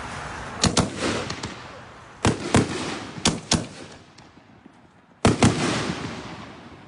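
Reloadable canister firework shells going off: four pairs of sharp booms, each pair a fraction of a second apart, each followed by a long echoing fade.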